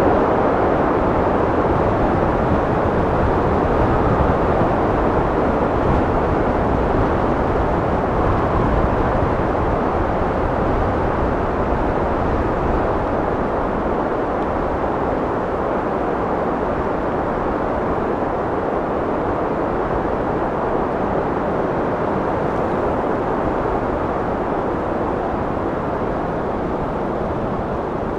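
Wind blowing steadily: a continuous low rushing noise with no gusts or breaks, easing a little in strength over the later part.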